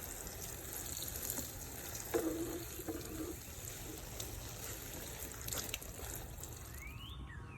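Water running steadily with an even hiss, a few small clicks and knocks in it. Near the end, small birds begin chirping in short sweeping notes.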